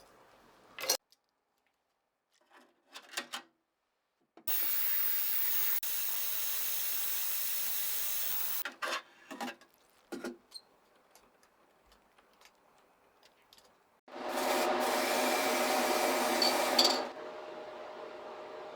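Hand and power tool work on the ice box in short cuts: a sharp click, a few light taps, about four seconds of steady rubbing noise, more taps, then a motor-driven tool running for about three seconds before a low steady hum.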